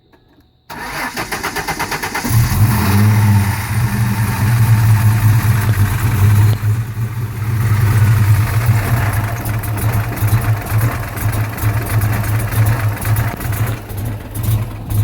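Supercharged 2001 Ford Mustang 3.8-litre V6 cold-starting. The starter cranks rapidly for about a second and a half, then the engine catches and runs at a loud fast idle. The idle dips once about seven seconds in and then comes back up.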